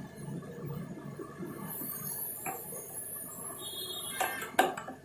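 Metal parts of a Suzuki Access 125 engine knocking and clinking as it is taken apart by hand, with a few sharp knocks in the second half, the loudest about four and a half seconds in.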